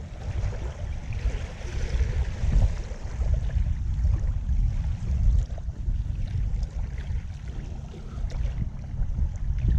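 Wind buffeting the microphone: a loud, uneven low rumble that rises and falls, with a thin hiss above it.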